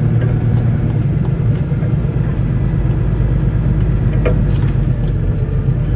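Semi-truck's diesel engine running with a steady low rumble, heard from inside the cab, with a few faint clicks.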